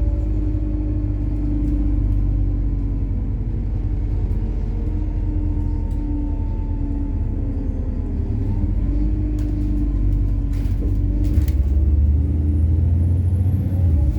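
MAZ-103 city bus on compressed natural gas, heard from inside the cabin while driving: a steady engine and road drone with engine tones drifting slightly in pitch. A few short rattles come about ten seconds in, and a heavier low rumble sets in near the end.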